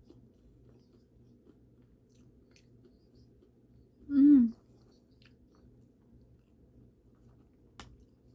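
A person chewing food quietly, with faint mouth clicks here and there. About four seconds in there is one short, loud voiced 'mm'-like sound that rises and falls in pitch.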